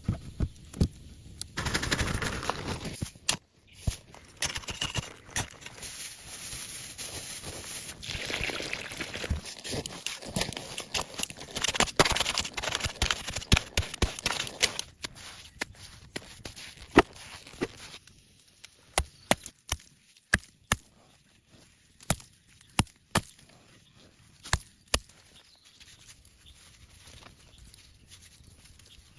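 Rustling and crackling, like material being handled, for roughly the first half. After that come sharp, irregular knocks or snaps, a few a second at first, then thinning out.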